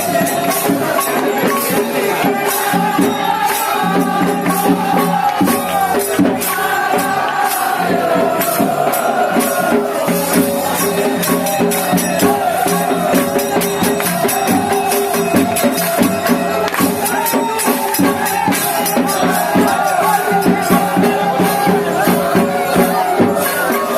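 Devotional aarti music: voices chanting or singing over fast, continuous metallic jingling percussion and a held steady tone underneath.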